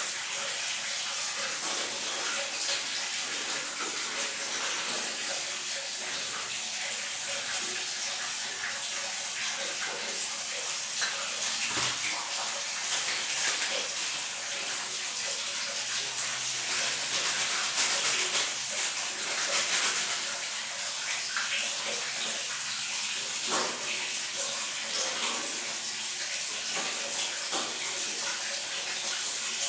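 Water running steadily, with a few light knocks.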